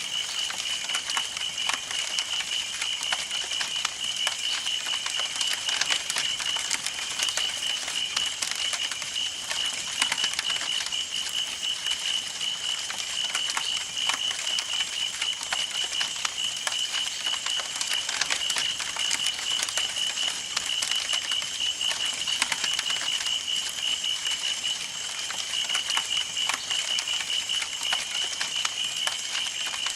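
Campfire burning with a steady run of crackles and pops from the burning wood, over a continuous high, rapidly pulsing chirp.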